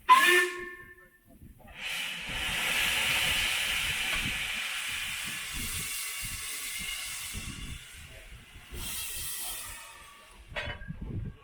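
Steam locomotive letting off steam in a long, steady hiss that starts about two seconds in and dies away near the end, after a brief sharp sound at the very start.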